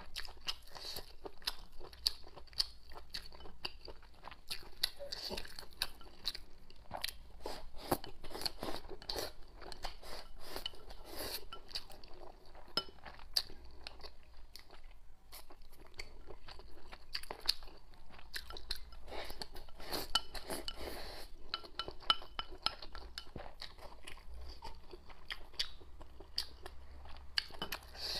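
Close-miked eating sounds: chewing and biting on spicy hot-pot food, with a steady run of short smacking clicks from the mouth.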